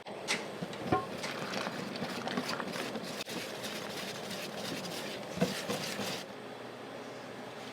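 Food sizzling on an iron teppan griddle while metal spatulas scrape and clack against the plate. The sizzle drops off about six seconds in.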